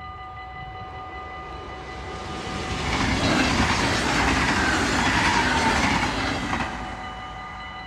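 Level-crossing warning bell ringing steadily while an NS double-deck electric passenger train passes at speed. The train's wheel and rail noise swells over a couple of seconds, is loudest from about three to almost seven seconds in, then falls away suddenly, leaving the bell ringing.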